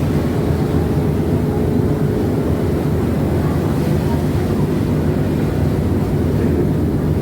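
Steady low drone of a passenger ship's engines heard on board, running evenly without change.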